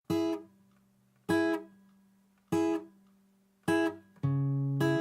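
Acoustic guitar strumming chords, one strum about every second and a quarter, each left to ring and fade, with the strums coming quicker near the end: the instrumental intro of a song.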